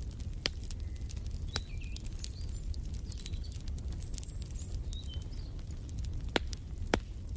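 Wood fire crackling in a fireplace: scattered sharp pops over a low steady rumble, the two loudest pops close together near the end. A few short bird chirps sound over it.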